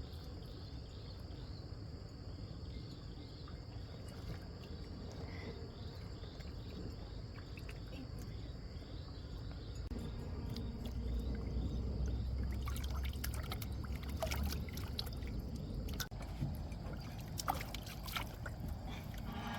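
Water trickling and splashing over a steady high insect drone. In the second half come a low rumble and a run of knocks and splashes, as of a small boat or traps being handled in the water.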